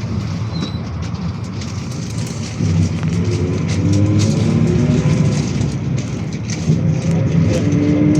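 Cabin of a GAZelle City minibus on the move: the engine running under road noise with scattered rattles and clicks from the body. About two and a half seconds in the engine gets louder and its pitch climbs as the bus accelerates.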